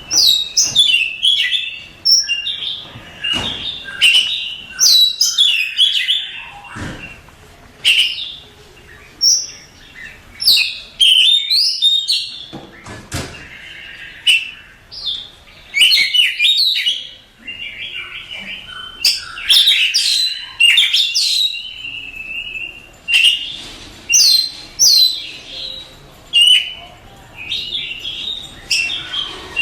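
Oriental magpie-robin singing a varied run of loud whistled phrases, sweeping notes and quick chattering notes, with short pauses between phrases.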